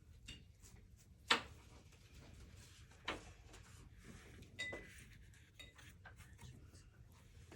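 About five light clinks and taps on hard dishware, the loudest about a second in and one near the middle ringing briefly: painting gear such as a brush, water container or palette being knocked and set down on the table during watercolor work.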